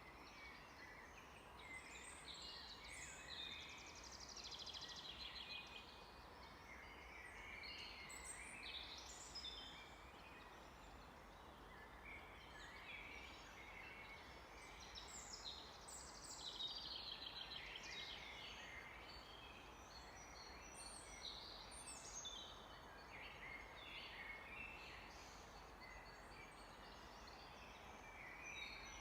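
Several songbirds singing at once: overlapping high chirps, whistles and fast trills, faint over a light steady hiss.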